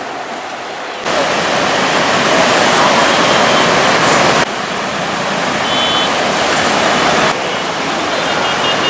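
Steady rushing noise that jumps and drops in level abruptly three times. Faint high beeping tones come in near the end.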